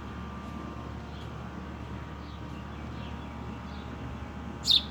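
Fledgling bird giving a few faint, short, high, falling peeps, then one loud chirp near the end, over a steady low hum of room noise.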